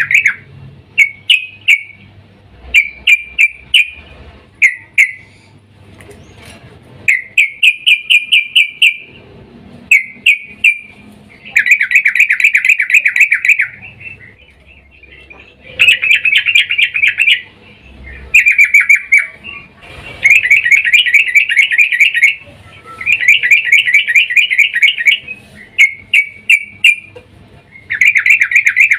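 Female yellow-vented bulbul (trucukan) giving its mating call to a male: repeated bursts of rapid, sharp notes, each burst one to two seconds long, with short pauses between them.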